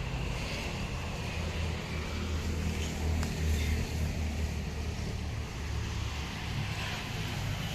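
An engine running steadily at a low, even rumble, with a few faint ticks about three seconds in.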